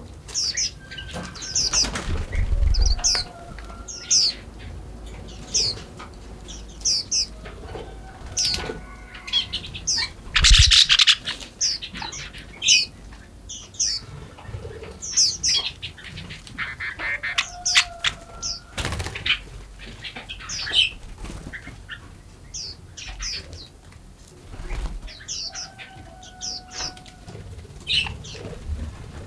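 Small forest songbirds chirping in many quick high notes, with a few longer whistled notes lower down. Short bursts of wing flapping break in now and then, the loudest about ten seconds in.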